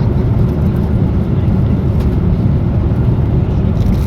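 Steady low roar of a jet airliner's cabin in flight: engine and airflow noise, even throughout.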